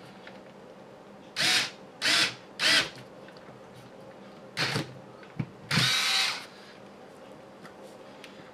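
Electric screwdriver driving countersunk screws into the servo plate of an RC crawler kit, running in five short bursts, the last one the longest.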